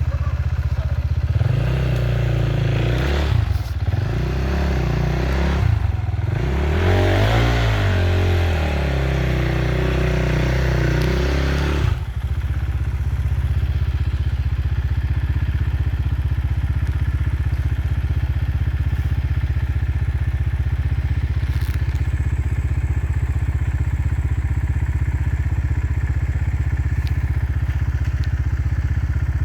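Enduro motorcycle engine revving in repeated bursts, its pitch rising and falling, for about ten seconds, then settling to a steady low running note.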